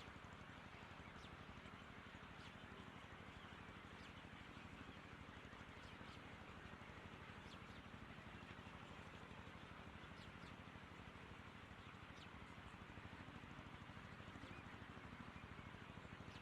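Faint bird chirps, short and high, every second or two over a steady low hiss and hum.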